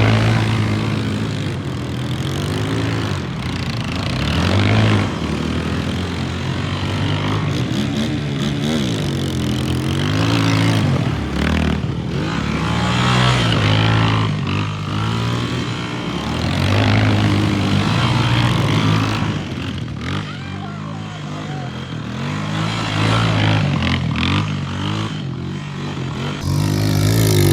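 ATV engine running, its pitch rising and falling again and again as the throttle is opened and eased off.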